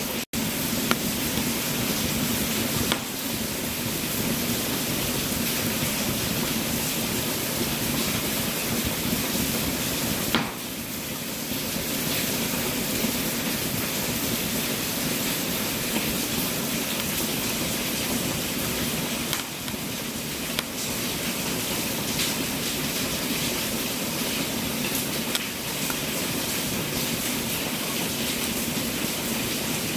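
Wood fire burning in a fireplace: a steady hiss with scattered small crackles and pops.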